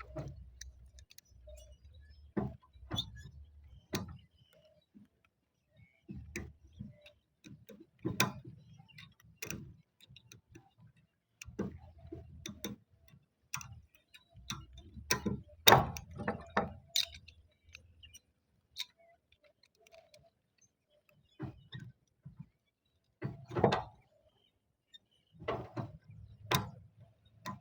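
Scattered, irregular knocks and clicks of roof tiles and their fixing bolts being handled and fitted, with the loudest knocks near the middle and again near the end.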